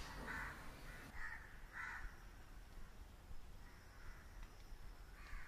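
Faint bird calls: three short calls in the first two seconds and one more near the end.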